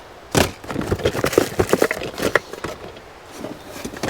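Camp kitchen gear being rummaged through: a sharp knock about half a second in, then about two seconds of quick clatter and clicking of items being shifted, with a few fainter clicks near the end.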